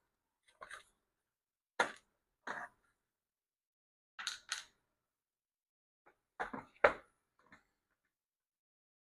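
A handful of short, separate knocks and clatters, some in quick pairs, with silence between: a screwdriver and the plastic housing of a handheld leaf blower being handled while its screws are taken out.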